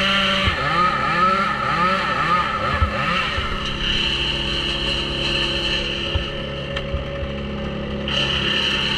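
A small gasoline engine running at high speed, its pitch dipping and recovering about twice a second for the first three seconds as it takes load, then holding steady.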